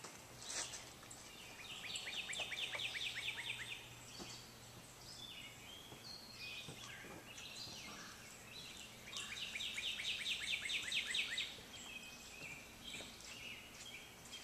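A songbird singing two trills of quick down-slurred notes, about seven a second, each trill lasting about two seconds, with softer chirps from other birds between them.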